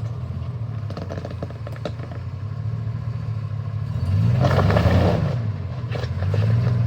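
Off-road 4x4's engine running at low speed, revving up and back down about four seconds in and again more lightly near the end as the vehicle is eased over an obstacle, with a few light knocks and clatter early on.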